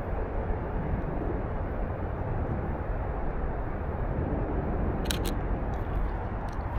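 Steady low outdoor rumble with a fluttering level, with a quick double click about five seconds in, typical of a camera shutter firing.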